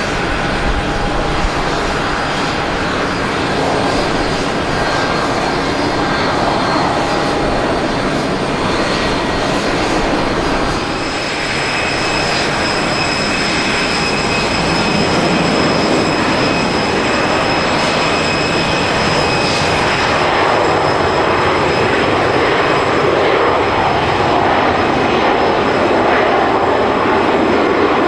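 Boeing 737-200's Pratt & Whitney JT8D turbofan jet engines running loud and steady. A high whine joins in about a third of the way through, and the sound grows a little louder after that.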